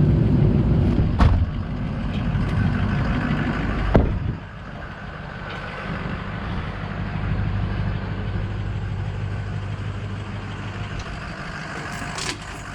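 Tow truck engine idling, loud at first, with a sharp click about a second in and a thump about four seconds in, after which the engine sound is quieter and steady.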